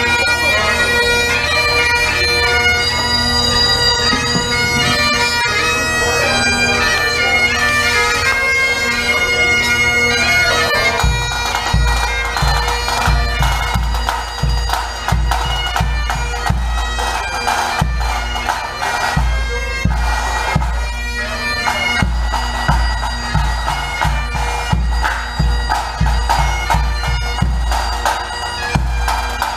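Bagpipe music: a melody over steady drones, with a drum beat coming in about eleven seconds in.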